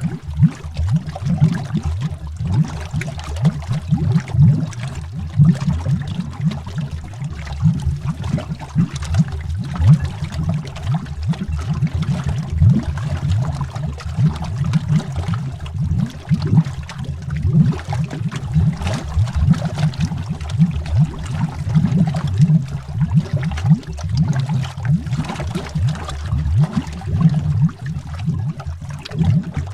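Underwater bubbles: a dense, irregular stream of low bubbling pops and gurgles, heard as from under water.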